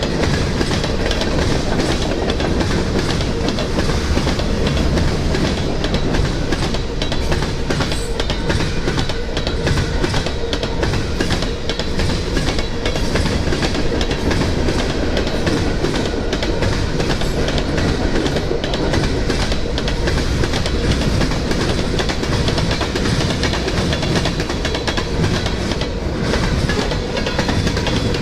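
CSX freight cars rolling past, their wheels clicking over the rail joints with a steady rumble.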